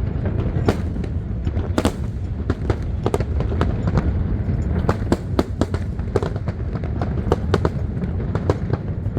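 Aerial fireworks going off in quick, irregular succession: sharp bangs and cracks, several a second, over a continuous low rumble.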